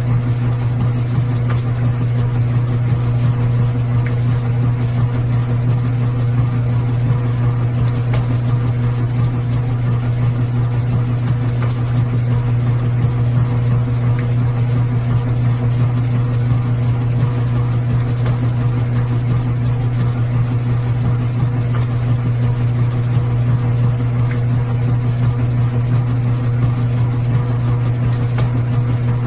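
Washing machine running steadily, a constant low hum with fainter overtones and no breaks or changes.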